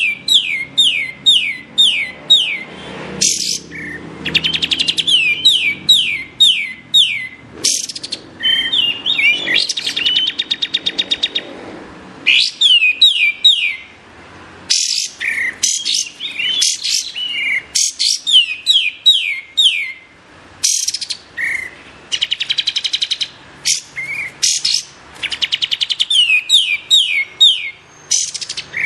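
Kapas tembak songbird singing: rapid strings of sharp, downward-sweeping whistled notes, several a second, in repeated bursts broken by short pauses, with a few fast buzzy trills in between.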